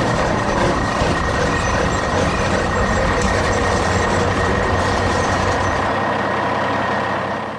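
Heavy vehicle engine running loudly, a dense steady noise with a thin high whine, cutting off suddenly at the end.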